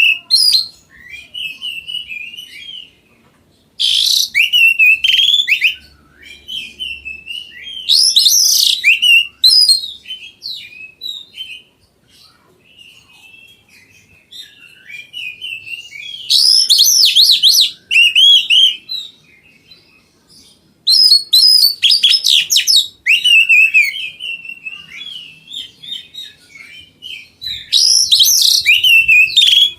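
Oriental magpie-robin (kacer) singing in full voice: five loud phrases of rapid, sliding whistled notes, each about two seconds long, with softer twittering between them.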